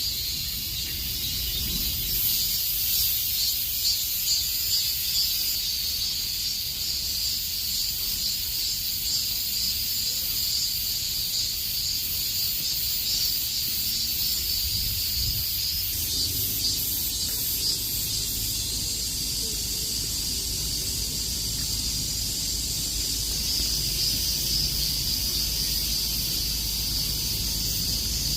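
Cicadas buzzing in a dense, steady high-pitched chorus with a slight pulsing, over a faint low rumble.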